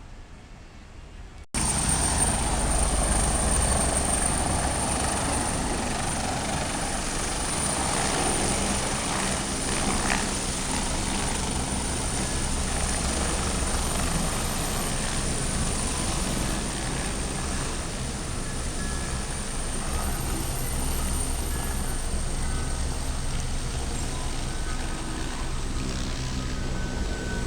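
Helicopter running: a steady, loud engine and rotor noise that starts abruptly about a second and a half in, with a thin steady high whine over it.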